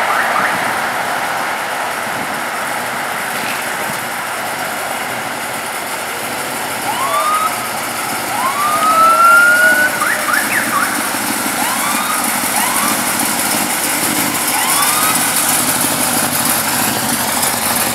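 Emergency-vehicle siren giving short rising whoops every second or two from about seven seconds in, with one longer rising wail that is the loudest moment, over steady vehicle and road noise.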